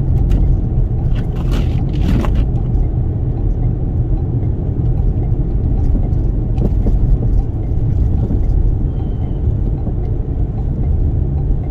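Toyota Sienna minivan driving on a snow-covered highway in strong wind: a steady low rumble of road and wind noise, with a few brief higher hisses about two seconds in.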